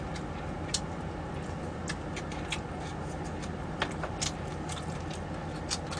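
Eating noises: about seven short, sharp mouth clicks and smacks scattered irregularly over a steady low hum.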